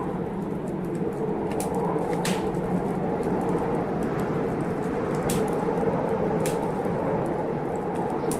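Wood fire crackling in a fireplace, a handful of sharp pops scattered through it, over the steady rush of a storm.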